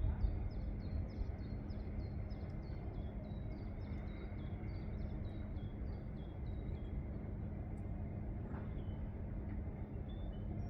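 A small songbird repeating a short high note about three times a second, stopping about seven seconds in, over a steady low rumble with a faint hum.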